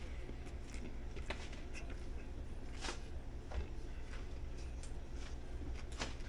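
Faint chewing of a dry sprouted-grain bread sandwich: a few soft mouth clicks over a steady low hum.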